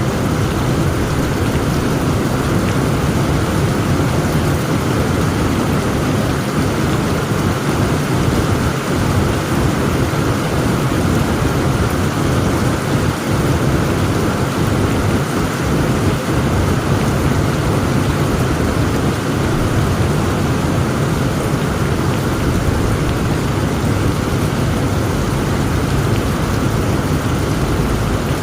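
Heavy rain falling steadily over a constant low rumble, with no sharp thunderclap.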